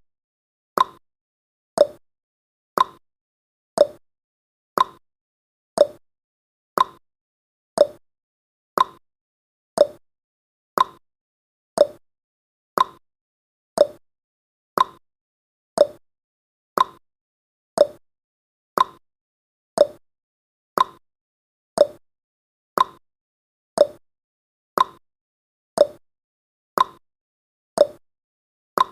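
Clock-style tick-tock sound effect from a countdown timer: one sharp tick each second, alternating between a higher and a lower pitch.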